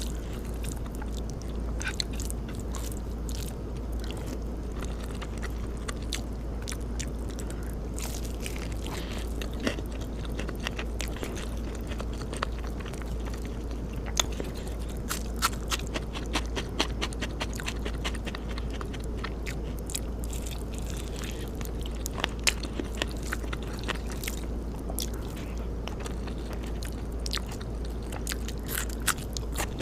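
Close-miked mouth sounds of a person eating: chewing with many sharp crunches and clicks, thickest from about the middle onward, over a steady low hum.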